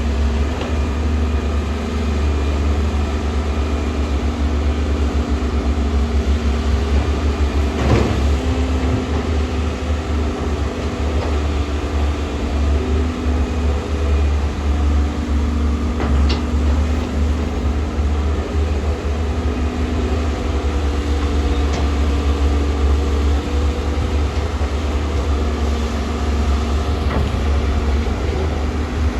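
Heavy earthmoving machinery running steadily, with a deep engine drone and a couple of short sharp knocks.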